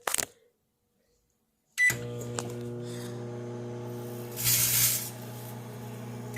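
Microwave oven beeps as it is started, then runs with a steady electrical hum. About two-thirds of the way in, a brief burst of hissing noise rises over the hum from the metallised snack bag inside. Near the end the hum stops with another beep.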